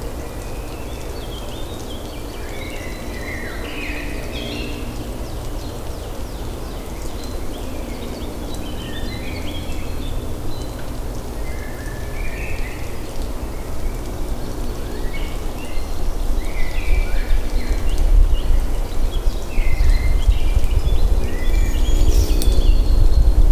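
Birds chirping and twittering, many short calls scattered throughout, over a steady low rumble that grows louder through the second half.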